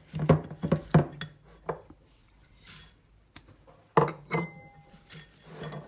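A fork and spatula knocking and clinking against a mixing bowl as lard and bird seed are mashed together. A run of light knocks comes in the first two seconds, then a sharper clink about four seconds in that rings briefly.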